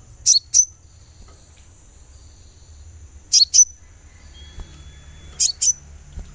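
Olive-backed sunbird giving three pairs of sharp, high chirps that sweep downward, the pairs about two to three seconds apart. A steady high ringing runs underneath.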